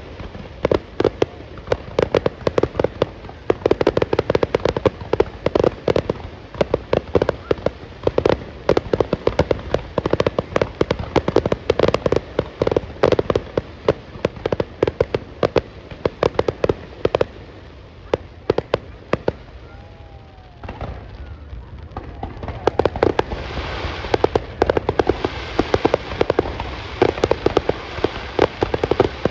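Fireworks going off in a dense, rapid run of bangs and crackles, many a second. They thin to a lull about two-thirds of the way through, then build again with a steady crackle.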